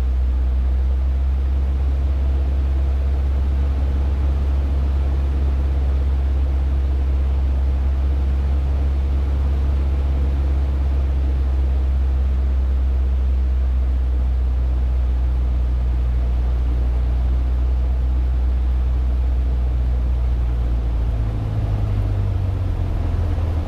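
Cessna 150's four-cylinder Continental O-200 engine and propeller droning steadily, heard inside the cockpit on final approach to land. About three seconds before the end the drone shifts in pitch as the power changes.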